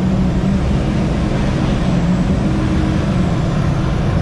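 Car engines running at low revs: a steady, loud, low exhaust rumble that wavers slightly in pitch.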